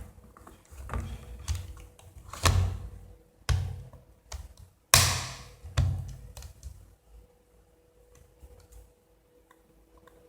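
A run of knocks and thuds, about a dozen, the loudest about five seconds in with a short ring after it, over a faint steady hum; the last few seconds hold only light ticks.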